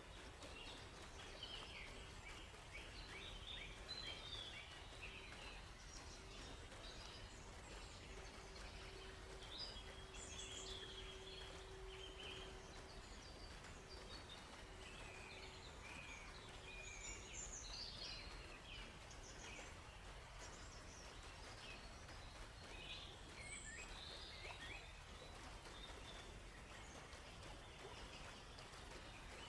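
Faint forest ambience: many small birds chirping, short overlapping calls scattered throughout over an even background hiss. A thin steady low hum runs through the first half or so, breaking up before it stops.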